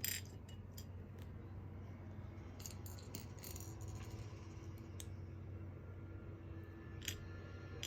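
Scattered light clicks and rattles of small plastic LEGO pieces being handled, over a steady low hum.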